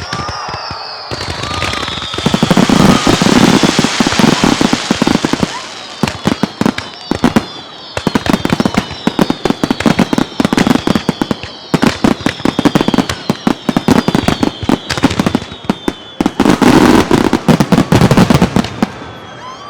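Fireworks barrage: rapid volleys of aerial shell bursts and crackling, with several whistles that fall steadily in pitch. The volleys are thickest about two to five seconds in and again near the end.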